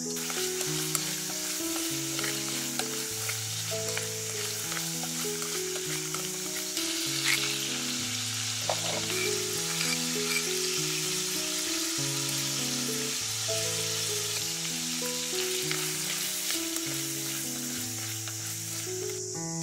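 Shrimp and garlic frying in oil in a pan: a steady sizzle with scattered clicks and scrapes of a utensil stirring them. Background music of slow, held notes plays under it.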